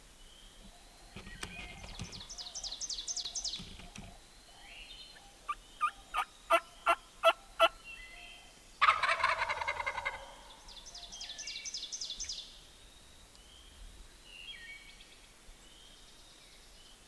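A wild turkey gobbler gobbles loudly once, about nine seconds in. Before it comes a run of six evenly spaced turkey yelps, and quick high chirping runs come before and after.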